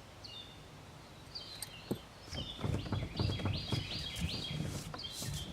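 Small birds chirping, with a quick run of repeated chirps in the second half. Low knocks and rustling run underneath from about two seconds in.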